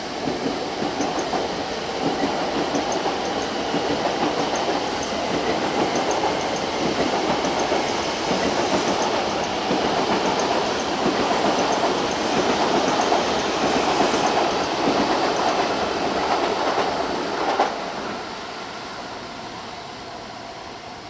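Train wheels running slowly over yard tracks and points, a steady rumble and clatter of wheel knocks. About 18 s in there is a sharp knock and the noise drops away.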